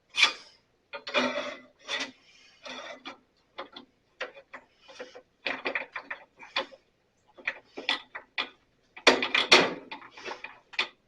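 Screwdriver and metal bandsaw parts clicking, knocking and scraping irregularly as a guard is worked loose, with a busier run of clatter near the end.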